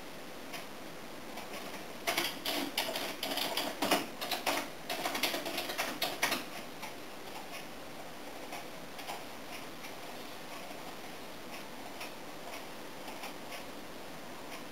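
Irregular sharp ticks and taps of storm precipitation striking a hard surface close to the microphone: a dense flurry from about two seconds in until about six and a half seconds, then only scattered single ticks.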